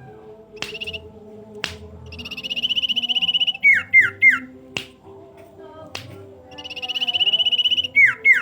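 Sirpu bird song: a fast, even trill of high notes for about a second and a half, followed by three quick down-slurred whistles, the sequence repeating twice, with sharp clicks in between.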